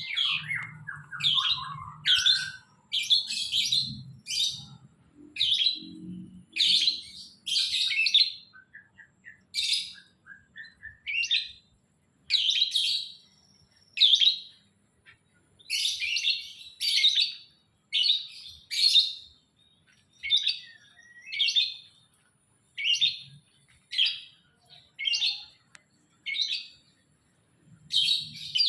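A bird chirping: short, bright chirps repeated about once a second, with a few lower falling notes at the start.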